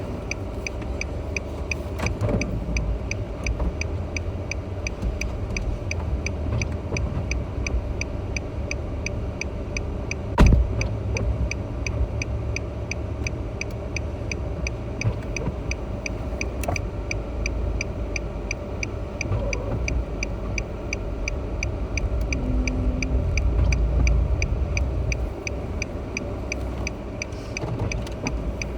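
A car idling at a standstill while its turn-signal or hazard relay ticks steadily. A single loud thud about ten seconds in is a car door shutting.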